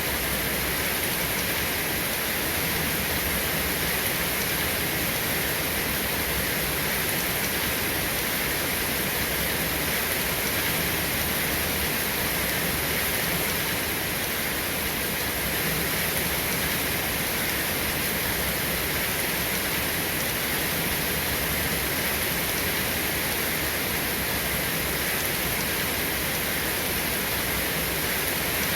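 Steady heavy rain: a constant, even hiss with no thunder and no change in level.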